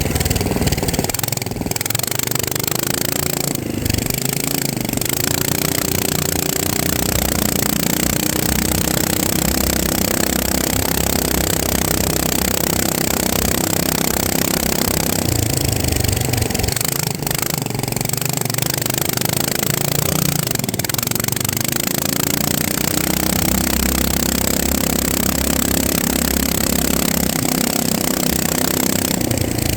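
FPV quadcopter's motors and propellers buzzing steadily, the pitch gliding up and down several times as the throttle changes.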